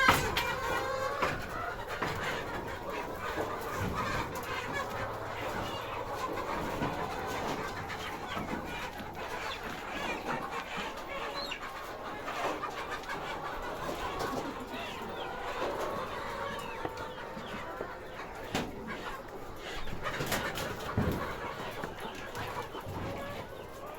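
A flock of layer hens clucking and calling over one another, many short overlapping calls at once, with a few scattered knocks.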